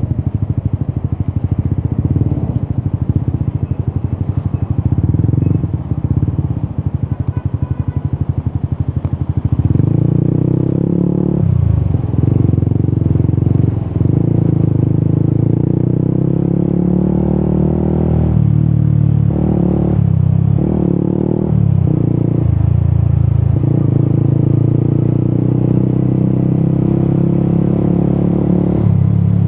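Yamaha XSR 155's single-cylinder engine through an Akrapovic exhaust. It runs at low revs with a pulsing beat for about the first ten seconds, then pulls at higher revs, dipping and rising in pitch several times.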